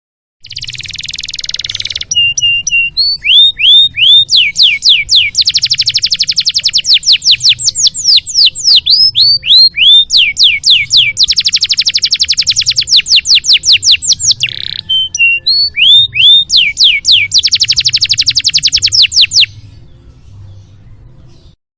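Domestic canary singing one long song of fast rattling trills, buzzy rolls and quick rising whistled notes. The song starts about half a second in, tapers to a few soft chirps near the end and then stops.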